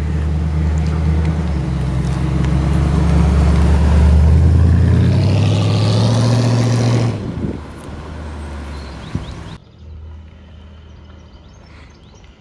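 A car engine running close by, growing louder to a peak about four seconds in, then dropping away after about seven seconds as the car moves off. The sound then changes abruptly to a quieter outdoor background near the end.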